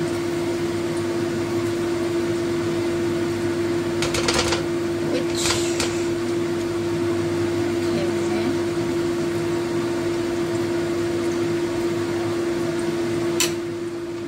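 Minced-fish patties sizzling in shallow oil in a frying pan over a steady machine hum like a kitchen fan. A few spatula taps and scrapes against the pan come about four to five seconds in and again near the end.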